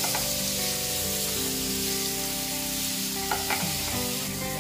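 Spice-marinated soya chunks and cumin seeds sizzling in hot oil in a nonstick frying pan while being stirred with a spatula. The spatula knocks against the pan near the start and twice about three and a half seconds in.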